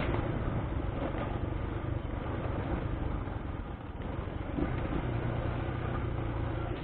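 Honda XR200's single-cylinder four-stroke engine running under load as the dirt bike climbs uphill, its carburetor freshly repaired. The engine note dips briefly about four seconds in, then holds steady again.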